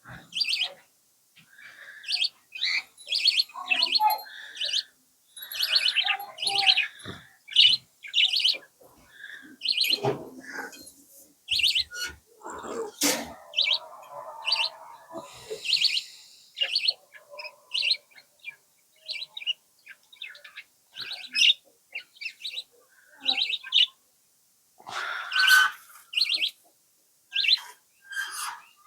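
Small pet parrots, cockatiels and budgerigars, chirping in quick, repeated high calls, with a brief rustle and click about halfway through.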